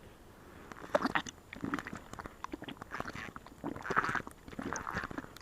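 Irregular scraping, rustling and clicking, as of something being handled or wiped by hand.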